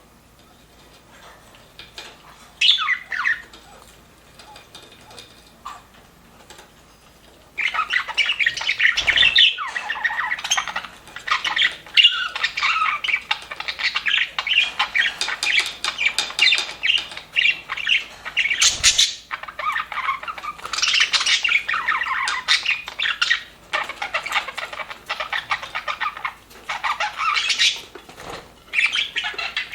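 Budgerigars chirping and chattering. There is one short call about three seconds in, then a flock chatters densely and rapidly from about seven seconds on.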